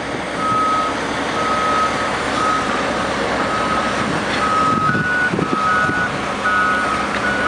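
Backup alarms of heavy oilfield bed trucks beeping steadily, about one beep a second, over running truck engines. About five seconds in, a second, higher-pitched alarm joins, the two beeping out of step with each other.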